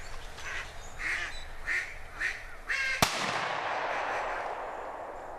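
A run of duck quacks, roughly two a second, then a single loud shotgun blast about three seconds in, its report echoing away over the next couple of seconds.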